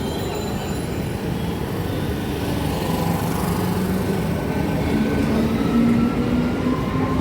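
Indian Railways train running on the track, a steady rumble of wheels and rails that grows slightly louder toward the end.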